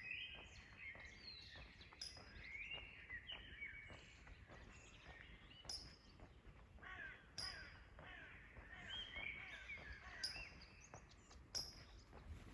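Faint morning birdsong from several songbirds: a steady stream of short chirps and gliding whistled notes, with occasional sharp clicks.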